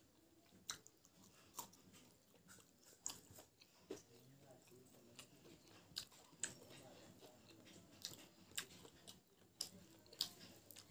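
A person chewing a mouthful of food close to the microphone. Wet mouth smacks and sharp clicks come irregularly, about once or twice a second.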